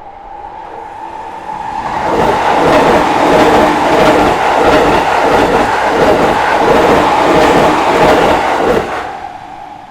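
An electric train passing over a level crossing, its wheels clattering over the rail joints in a quick, even rhythm; it swells in about two seconds in, stays loud for some seven seconds and fades near the end. A steady crossing warning-bell tone rings under it before and after the train.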